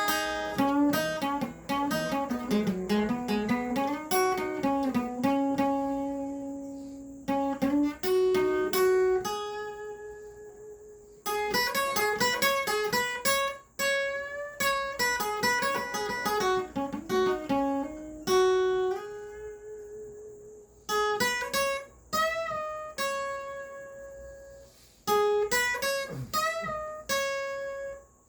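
Acoustic guitar played solo: plucked notes and chords ringing out and decaying, broken by short pauses every few seconds.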